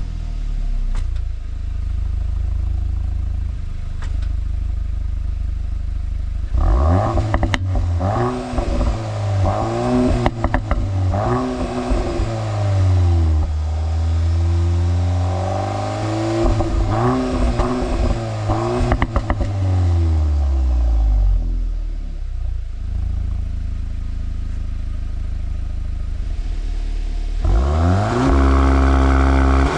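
Cupra Formentor VZx's 2.0-litre turbo four-cylinder through the optional Akrapovic exhaust, accelerating hard. The pitch climbs and drops several times as the dual-clutch gearbox shifts up, with a few sharp cracks from the exhaust. It settles to a steadier note, then pulls up again near the end.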